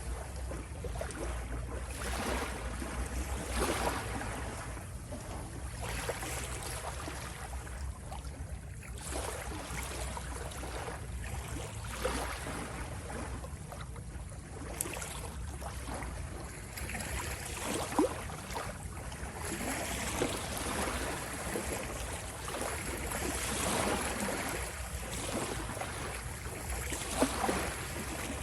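Ocean waves washing in, swelling and easing every few seconds with occasional sharper splashes, over a steady low rumble.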